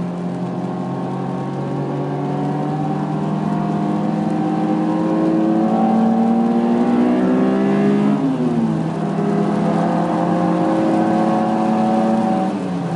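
2002 Honda S2000's 2.0-litre four-cylinder engine pulling hard on track, heard from inside the car. The engine note climbs steadily, drops sharply about two-thirds of the way in as it upshifts, then climbs again and drops once more at the end.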